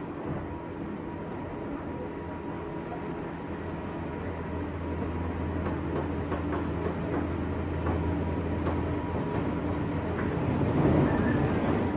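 JR West 201 series electric train running, heard from inside the motor car: steady running noise with a low hum and a thin steady tone. A few light clicks come partway through, and the sound grows a little louder toward the end.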